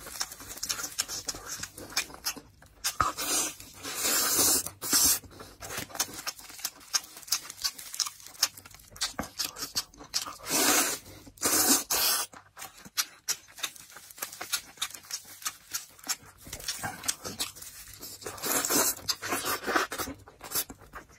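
Close-miked eating of cola chicken wings: wet chewing, lip-smacking and sucking meat off the bone, in irregular bursts of moist clicks.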